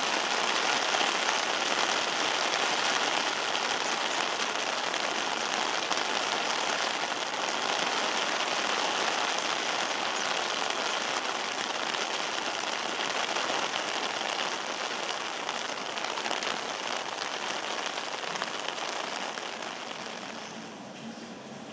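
Steady rain falling, which fades away near the end.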